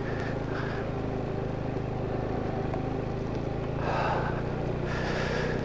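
Motorcycle engine running steadily at a constant speed while riding on loose, powdery snow, a low even hum with a brief rise of rushing hiss about four seconds in.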